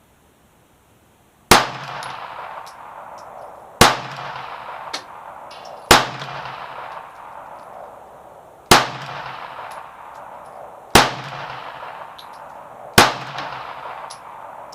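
Kel-Tec P-32 pocket pistol firing .32 ACP, six slow aimed shots about two seconds apart, each with a ringing echo that dies away before the next.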